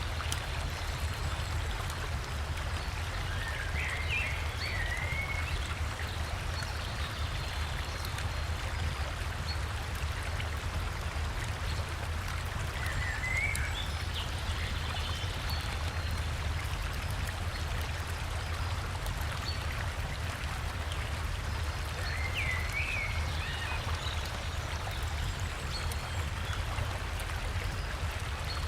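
Steady rushing of a river and waterfall with a deep low rumble. A songbird's short chirping phrase comes through three times, about nine seconds apart.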